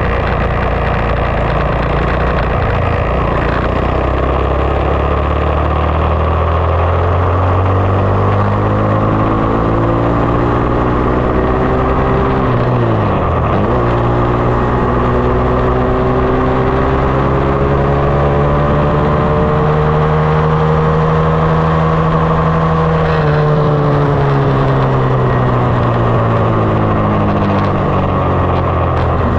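Single-cylinder four-stroke engine of a 2020 SSR 189 dirt bike under way. The revs climb steadily, drop sharply for a moment a little before halfway, as on a gear change or a blip off the throttle, then climb again, hold, and fall away in the last few seconds.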